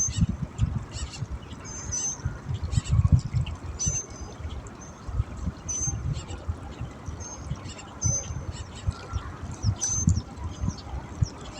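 Birds calling: short, high whistled notes repeated every second or two, with scattered chirps. Uneven low rumbling gusts, loudest about three seconds in, from wind buffeting the microphone.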